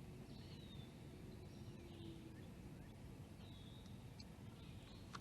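Faint bird calls: a few short chirps that slide down in pitch, over a low steady rumble of outdoor background noise.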